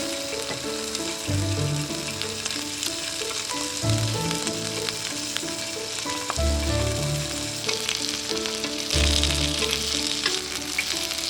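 Food sizzling on a multi griddle pan: a steady hiss with small crackles, strongest near the end, under background music with a slow repeating bass note.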